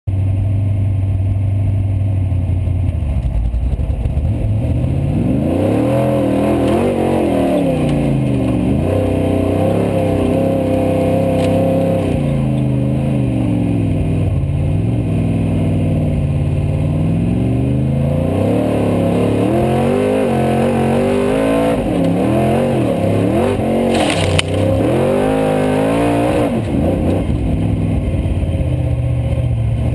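Formula offroad car's engine heard from inside the cockpit, idling at first, then revved hard up and down again and again as the car is driven, settling back to a steady idle near the end. A short, sharp rattle cuts through about 24 seconds in.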